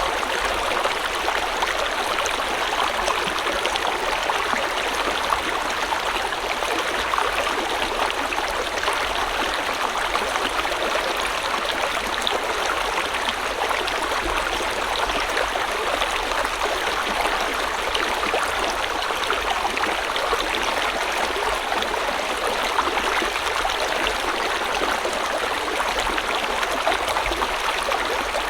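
A river or stream flowing steadily over rocks, a continuous rushing with fine splashing and gurgling and no change in level.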